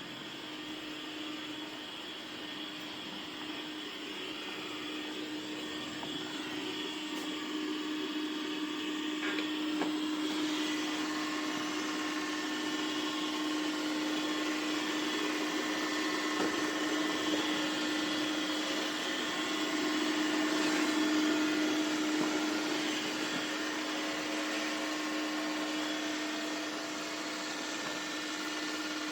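Dreame X50 Ultra robot vacuum running: a steady motor hum with a hiss of suction. It grows louder about ten seconds in and is loudest around twenty seconds.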